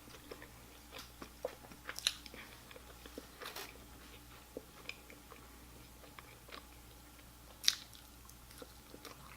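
A person chewing and biting into fried fast food close to the microphone: faint mouth sounds with scattered small crunches and clicks, and one sharper click about two thirds of the way through.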